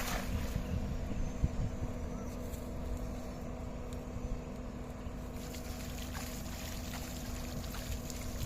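A small boat's motor running steadily, with wind buffeting the microphone.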